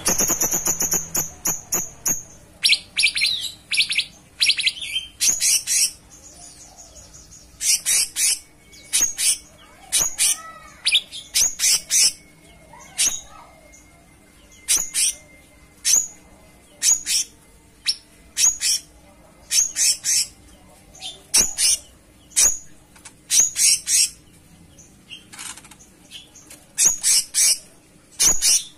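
Cucak cungkok singing: a dense run of high, sharp chirps, then short bursts of chirping notes repeated about once a second.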